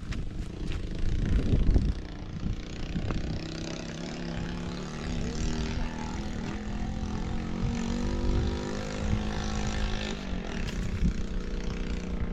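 A motor engine runs with a steady hum that swells through the middle and fades away about ten seconds in, over a low rumble.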